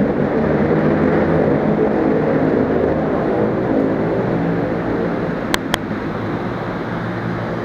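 Train at a station platform: a steady engine drone, with two sharp clicks about five and a half seconds in.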